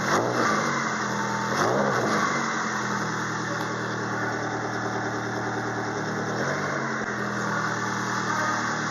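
Toyota 5S-FE 2.2-litre inline-four idling steadily on a test run, with short revs near the start, again about two seconds in, and a smaller one later on.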